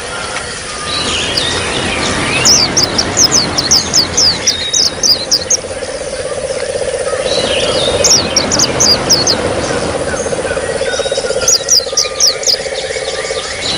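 Oriental white-eyes (pleci) twittering in three runs of quick, high, falling notes, over a steady trickle of running water.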